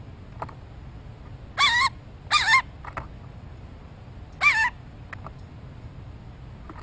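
Three short bird calls with a wavering pitch: two close together about a second and a half in, and a third about four and a half seconds in. A few faint clicks sound between them, over a steady low background hiss.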